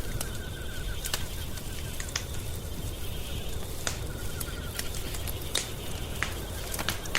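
Wood fire crackling in a fireplace: scattered sharp pops and snaps over a low steady rumble. A faint, rapidly pulsed trill comes and goes in the background.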